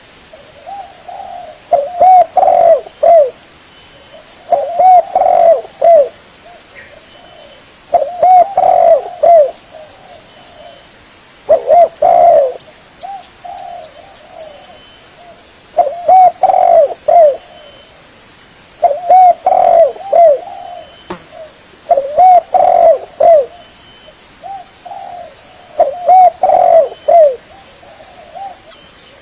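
Spotted dove (tekukur) cooing: a loud phrase of several low, curved coos repeated about every three to four seconds, eight times, as played for luring doves.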